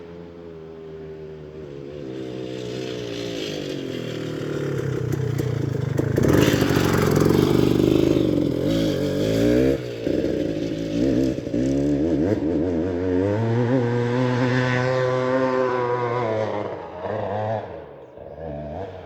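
Off-road vehicle engine revving hard under load on a steep hillclimb, its pitch wavering with the throttle; it grows louder, is loudest from about six to ten seconds in, and eases off near the end.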